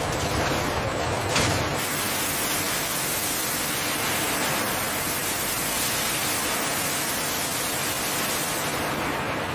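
A steady, even hiss of noise, with one brief thump about a second and a half in.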